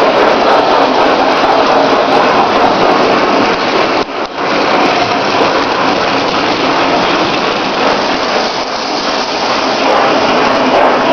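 Lionel O-gauge toy train running on Super O track: a loud, steady rushing rumble of wheels and motor that dips briefly about four seconds in.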